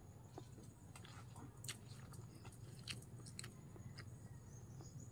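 Faint chewing of squid adobo and rice: scattered soft, wet mouth clicks over a low steady hum.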